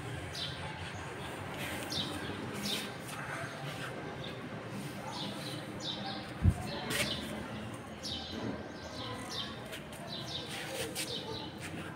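Small birds chirping again and again, short quick chirps that drop in pitch, over a steady outdoor background. A single sharp thump about halfway through.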